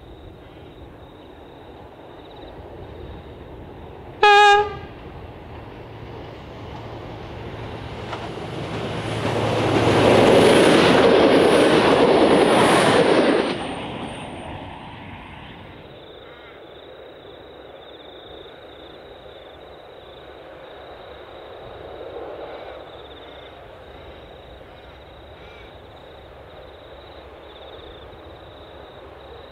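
Diesel train sounding one short horn blast about four seconds in as it approaches. It then passes close by with a swelling rush of engine and wheel noise and a high metallic ring from the rails, which cuts off suddenly as the train clears, about fourteen seconds in.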